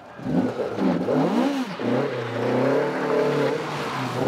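Rally car engine revving: the pitch rises and falls twice in quick succession, then holds high and fairly steady for a second or so before easing off.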